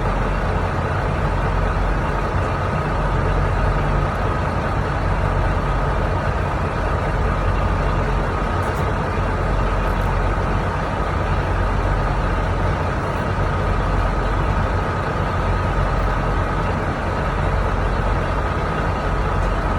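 Semi-truck diesel engine idling steadily, with a faint steady whine on top.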